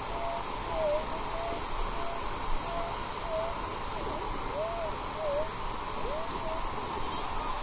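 Metal detector's audio signal as the coil is swept over a target: a string of short beeps at one pitch, several of them warbling up and down, which the detectorist calls a wispy, warbly, high-tone signal. A steady wash of surf noise lies behind.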